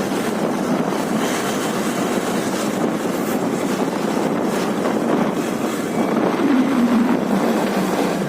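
Steady wind rush on the microphone over the running engine of a Hero Karizma R motorcycle on the move. The engine note rises slightly about six and a half seconds in.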